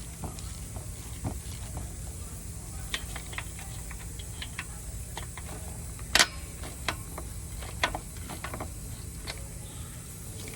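Scattered light clicks and knocks, like metal tools being handled, over a low steady hum; one sharper knock about six seconds in.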